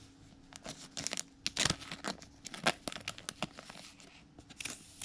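Trading cards being handled and slid against each other, with crinkling of the foil pack wrapper, in a series of irregular sharp rustles.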